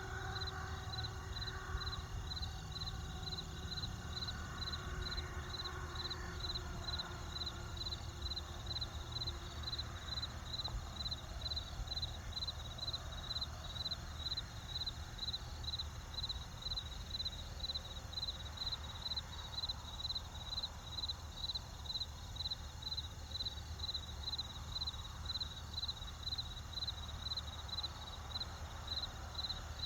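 Crickets chirping steadily, about two high chirps a second, over a low steady rumble. Faint held tones sound under them and fade out within the first third.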